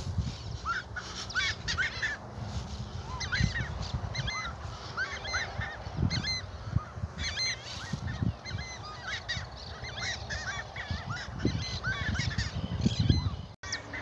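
Many birds calling over one another, a steady stream of short calls.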